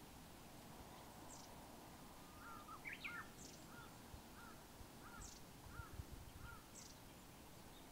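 Faint wild birdsong in hill woodland: thin, high, downward notes repeating every couple of seconds, and a run of short, arched lower calls about twice a second through the middle. A couple of low, muffled bumps come a little before the end.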